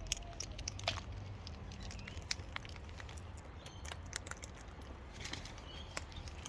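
Irregular light clicks and taps of cockatoos feeding at a seed bucket, beaks cracking seed and claws shifting, over a faint low hum.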